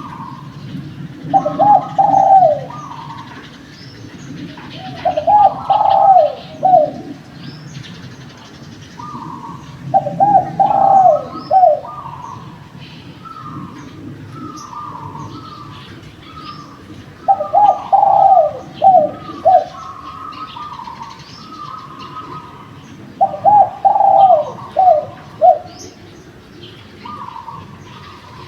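Spotted dove cooing: five loud phrases of several quick notes each, a few seconds apart. A fainter, slightly higher dove coos in between, and small birds chirp in the background.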